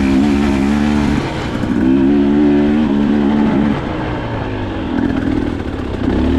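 Dirt bike engine running under riding load, its note held steady twice for about two seconds each as the throttle is held, then dropping and wavering before picking up again near the end.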